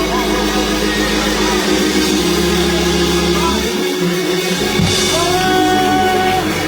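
Live band music with sustained held chords, bass notes and drums. A long high note is held from about five seconds in.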